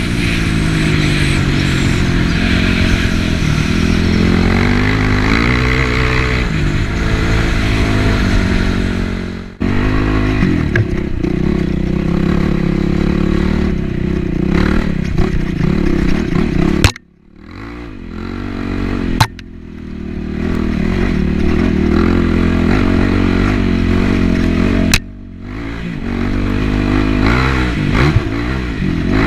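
Yamaha WR450F single-cylinder four-stroke dirt bike engine under way, its pitch rising and falling as the throttle is opened and closed. In the second half, three sharp clicks each cut the sound briefly before the engine comes back.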